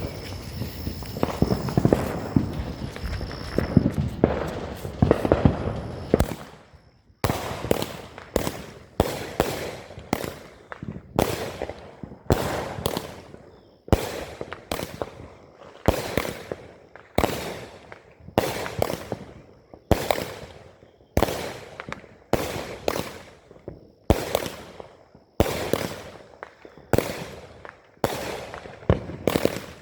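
Consumer firework cake firing. For the first six seconds there is dense crackling, then a steady series of sharp bangs, a little over one a second, each with a fading tail.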